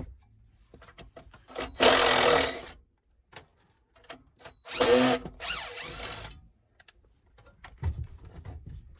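Power drill driving screws: two short runs of the motor, about two seconds and five seconds in, with small clicks and handling knocks between.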